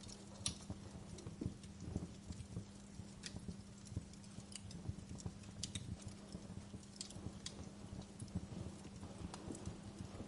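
Fire crackling, with irregular sharp pops and snaps over a low rumble of flames and a steady low hum underneath.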